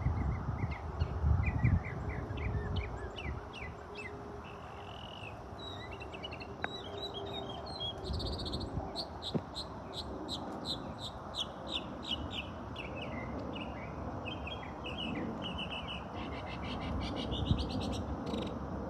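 Several birds chirping and calling at once in rapid series of short, high notes, a busy and lively chorus that goes on without a break.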